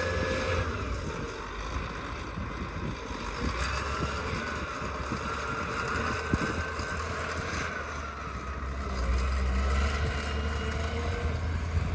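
Engine running steadily with a low rumble and a thin whine that drifts slowly up and down in pitch.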